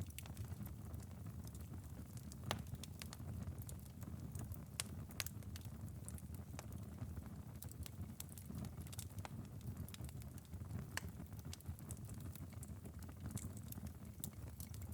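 Glowing ember bed of a wood fire in a fireplace, burned down after about five hours, crackling: scattered sharp pops and ticks over a low, steady rumble.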